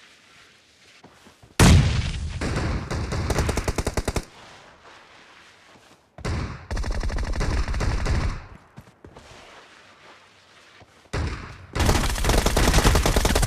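Automatic gunfire from a shooter video game: three long bursts of rapid fire, each lasting two to three seconds, starting about one and a half, six and eleven seconds in.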